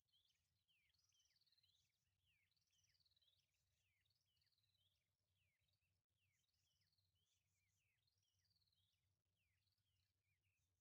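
Faint birdsong: a continuous run of quick, sweeping whistled notes.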